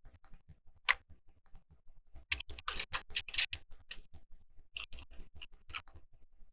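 Small plastic Lego pieces clicking and rattling as they are handled and sorted through: a single sharp click about a second in, then two runs of rapid clicking.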